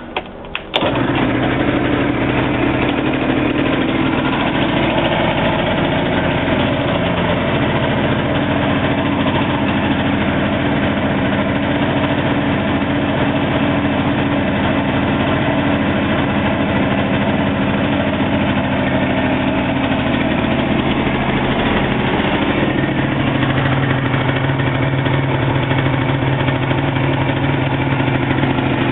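Yamaha BW's scooter engine starting after a few clicks in the first second, then running steadily at idle. Its note shifts slightly about twenty seconds in.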